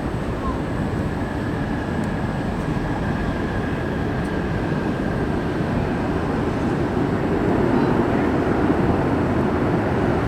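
Jet airliner engines, a steady rumble that swells slightly about eight seconds in, with a faint high whine in the first few seconds.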